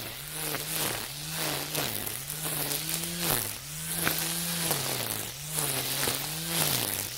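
Makita 40V battery string trimmer spinning nylon line through dense weeds, its whine sagging in pitch and picking back up about once a second as each sweep of the line bites into the growth, over a hiss of cut grass.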